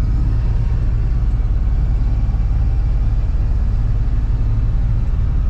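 Box truck engine running steadily, heard from inside the cab as an even low drone with no revving or changes.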